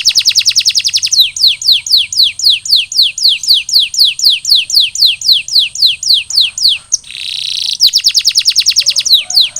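Canary singing: a rolling run of quick, downward-sliding whistled notes at about four or five a second. The song breaks into fast trills in the first second and again near the end, with a short harsh, buzzy note just before the last trill.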